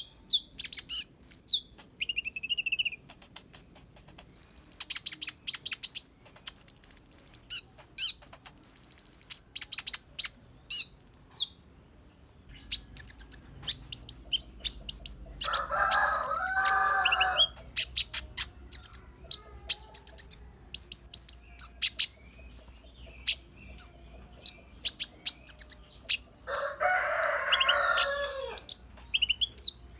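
Konin (kolibri ninja sunbird) singing a fast, continuous run of high chirps, trills and rapid ticks, its song filled with imitations of pleci (white-eye) song. Twice, in the middle and near the end, a lower, harsher call lasting about two seconds breaks in.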